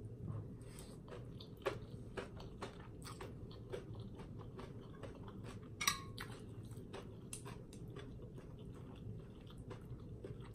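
A person chewing a mouthful of instant noodles close to the microphone, with many small wet mouth clicks. About six seconds in, a metal spoon clinks on the plate.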